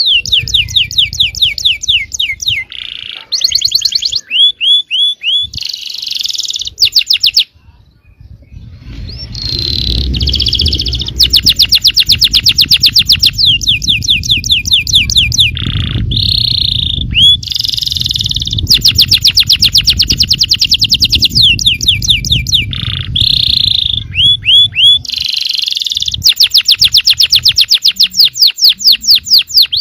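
Yellow domestic canary singing a long, nearly continuous song of fast trilled rolls, repeated chipping notes and clear whistled phrases, high-pitched, with a brief break about eight seconds in. A low rumble runs underneath through the middle stretch.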